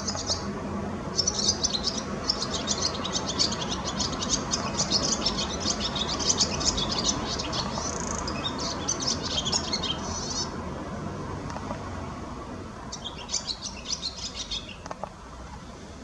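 Small garden birds chirping: a fast, dense run of high notes for about ten seconds, then a shorter run near the end, over a steady low background hum.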